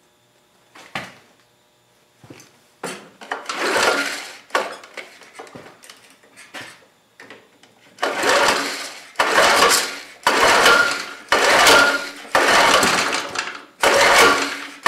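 Recoil starter of a Tecumseh TVS105 L-head lawn mower engine being pulled again and again, the engine cranking over without catching, about one pull a second in the second half. The cylinder is flooded with gasoline from a leaking carburetor float needle.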